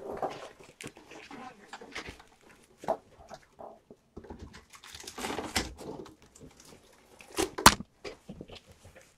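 Kittens moving about and playing: scattered light taps, knocks and rustling, with one sharp knock about three quarters of the way through.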